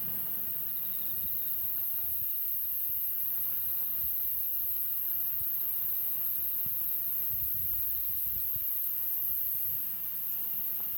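Steady, high-pitched drone of insects, likely crickets, holding unbroken throughout, over a faint low rumble.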